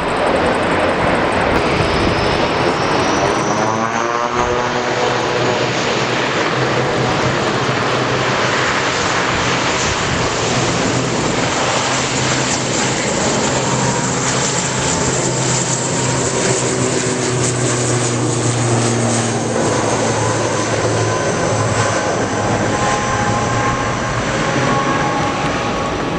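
Jet airplane's engines running loud and steady at high power as it passes, with a high whine rising over the first few seconds and a sweeping, phasing tone as the aircraft moves past.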